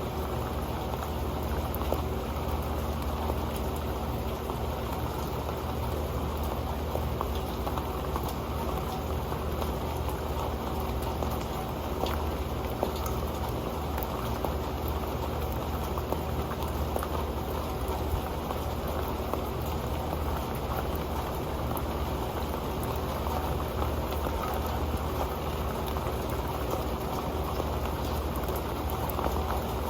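Rain falling steadily onto an old pan: a dense, even patter of drops with many small ticks.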